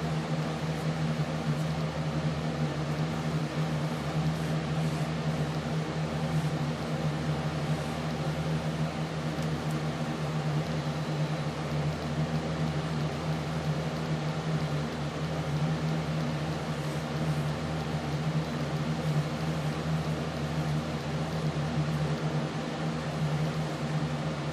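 A steady machine hum with a strong low tone and fainter overtones, unchanging throughout.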